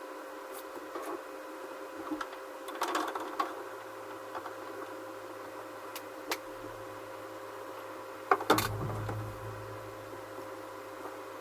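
3D-printed PLA parts handled and fitted together: scattered light clicks and taps, a short run of knocks about three seconds in and a louder double knock about eight and a half seconds in, over a steady hum.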